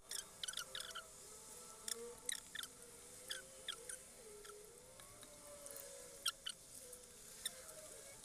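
A person eating close to the microphone: a string of short, wet mouth clicks and smacks from chewing, irregularly spaced.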